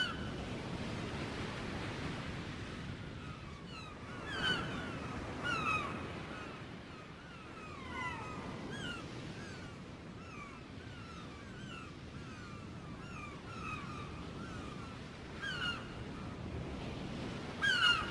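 A flock of gulls calling: many short, falling cries overlapping one another, some louder and closer, over a steady low rushing noise.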